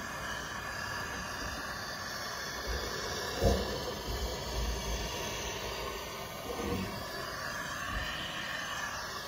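Gas blowtorch burning with a steady hiss while softening the edge of code 5 sheet lead so it can be folded by hand. Two brief knocks come about three and a half and six and a half seconds in.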